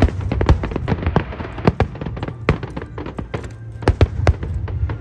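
Fireworks bursting: a rapid, irregular string of bangs and crackles, several a second.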